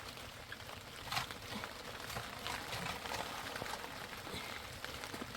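Hard rain falling, an even patter with a few louder drops or taps now and then.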